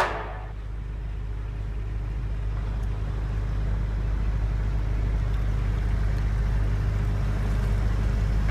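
A boat's motor running steadily with a low hum, growing slightly louder over the seconds.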